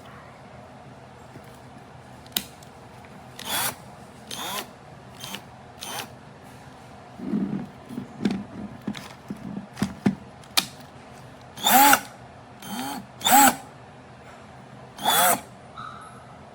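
A cordless brushless impact wrench is run in short trigger pulls, about six brief whirs spread over the stretch, each spinning up and dropping away.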